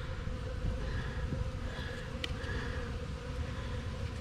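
Honey bees buzzing steadily around a beehive, with a faint click about two seconds in.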